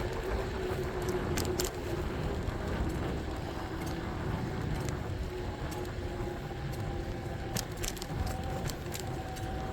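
Riding noise on a moving electric bike: low rumble of tyres and wind with a faint steady whine that steps up in pitch about six seconds in, and a few light ticks and clicks.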